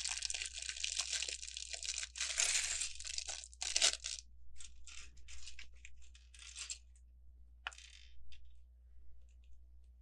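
Crinkling and rustling of a plastic Lego parts bag being handled, dense for the first few seconds and then thinning to scattered crinkles and a few light clicks.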